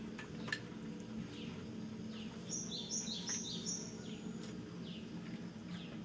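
Small birds chirping: short falling chirps repeated about once a second, and a quick phrase of high alternating notes about two and a half seconds in, over a steady low hum. A sharp click about half a second in.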